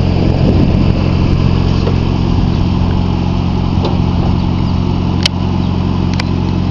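Car engine running steadily at idle, with a couple of brief clicks in the second half.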